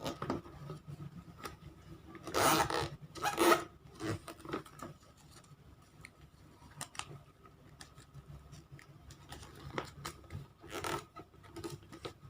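A sheet of origami paper being handled and folded by hand. Two louder rustles come about two and three seconds in and another near the end, with soft crackles and taps between them as creases are pressed down.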